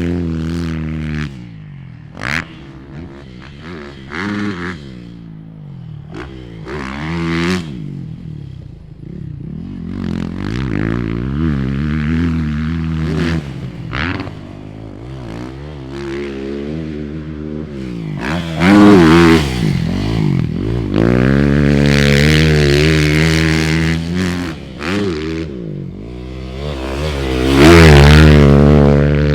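Motocross dirt bike engine revving hard and backing off again and again as it is ridden around a track, pitch climbing through the gears and dropping off. It is loudest about two-thirds of the way in and again near the end, with scattered clicks and knocks.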